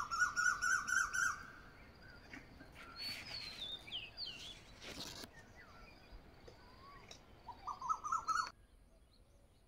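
Songbirds chirping and singing: a fast run of repeated chirps at the start, whistled up-and-down notes a few seconds in, and another quick run of chirps near the end before the sound cuts off abruptly.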